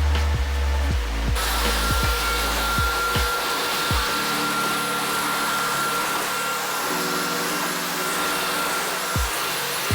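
Vacuum cleaner switched on about a second and a half in, then running steadily with a hiss and a thin high whine, over background music.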